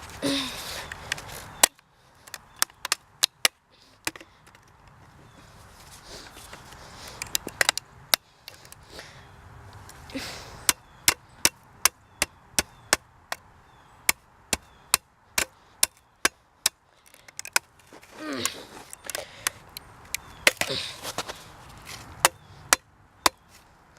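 Repeated sharp knocks of a tool being driven into the plastic case of an old internet router to force it open. The strikes come scattered at first, then in runs of about two a second.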